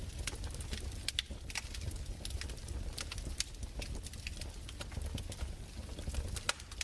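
Wood fire crackling: irregular sharp pops and snaps, several a second, over a low steady rumble of the burning fire.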